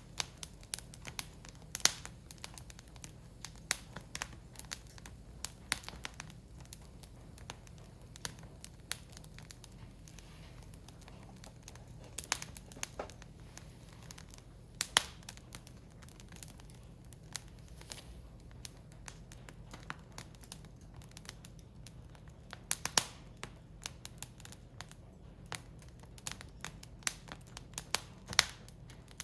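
Firewood burning, crackling with irregular sharp pops and snaps, a few much louder than the rest, over a faint steady low hum.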